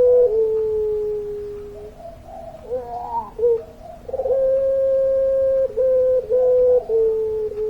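Puter pelung, a domestic dove bred for its long voice, giving two long drawn-out coos. Each is a held steady note that breaks briefly, steps down a little in pitch and fades, and between them comes a short run of broken, wavering notes.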